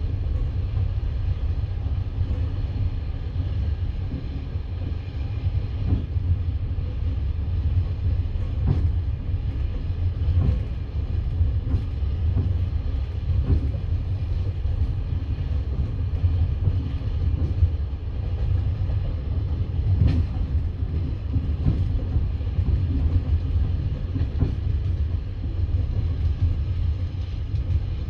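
A passenger train carriage running along the line: a steady low rumble of wheels on rails, with scattered knocks of the wheels over rail joints.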